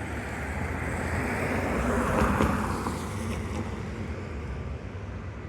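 A car passing by, its tyre and engine noise swelling to a peak about two seconds in and then fading away.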